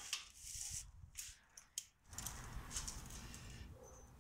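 Faint clicks and light metallic clinks of hand tools working the bolts on a mower deck, followed by low rustling handling noise.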